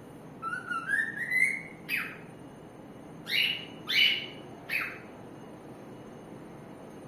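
Cockatiel singing: a quick run of short whistled notes stepping upward in pitch, then four short calls that each slide downward.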